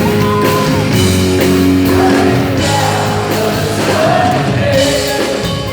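Live rock band playing, with a singer holding sung notes over it.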